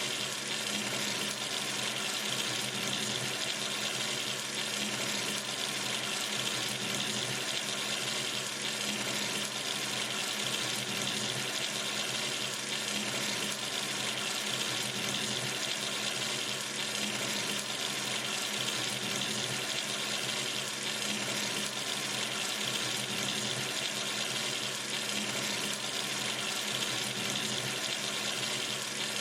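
Water running steadily from a sink tap into the basin, an even, unbroken hiss.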